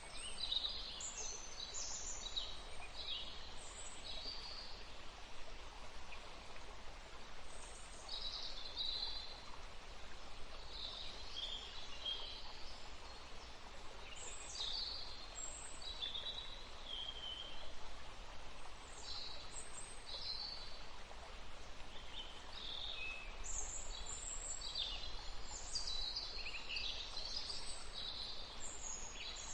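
Several small songbirds chirping and trilling in short bursts, in clusters that come and go, over a steady background hiss.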